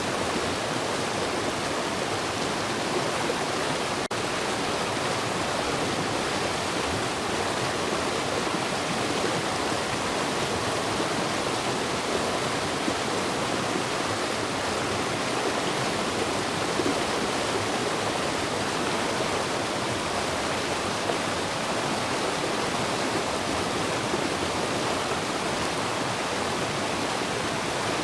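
Automatic truck wash spraying water over a semi truck, heard from inside the cab as a steady, even rush of water.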